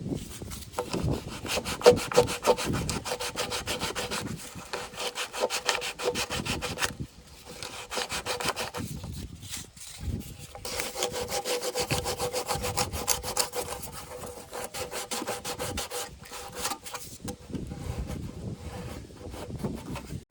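Coarse 36-grit sandpaper rubbed hard and fast by hand around the threads of a plastic water-tank filler neck, in rapid back-and-forth strokes with short breaks about seven and ten seconds in. The threads are being sanded down so that an ill-fitting cap will seat.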